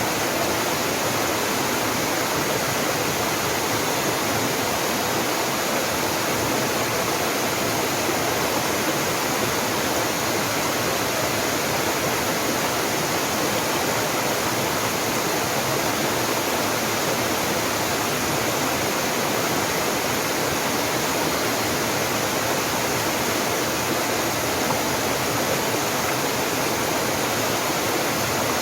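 Waterfall cascading steadily: an even, unbroken rush of falling water.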